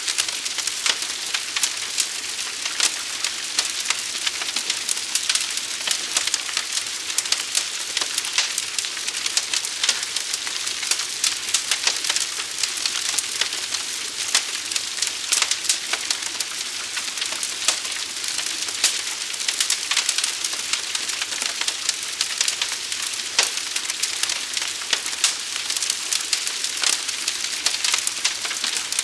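Fire burning: a steady hiss dense with sharp crackles and pops.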